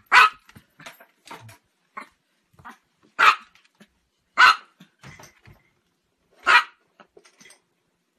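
A Chihuahua barking: four sharp, high-pitched yaps spaced a second or two apart, with fainter short yips and noises between them.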